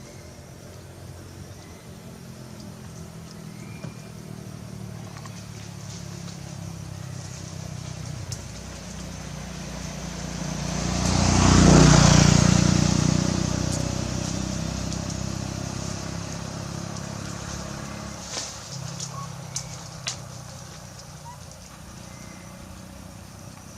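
A motor vehicle passing by: its engine grows louder over about ten seconds, is loudest about halfway through, then fades away. A few sharp clicks come near the end.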